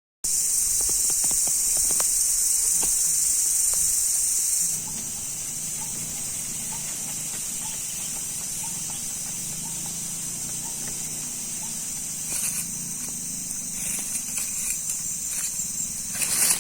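Countryside nature ambience: a steady high-pitched drone, typical of insects, that drops in level about five seconds in, with scattered rustling and crackling clicks near the end.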